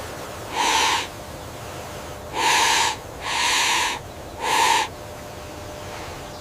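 A bird calling four times in owl-like, raspy hoots of about half a second each, spaced a second or so apart, over a steady background hiss.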